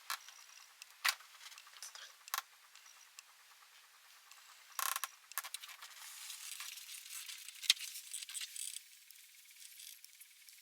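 Scattered sharp clicks and clinks of small metal parts and tools being handled, with a short rattle about five seconds in and a faint hiss between about six and nine seconds.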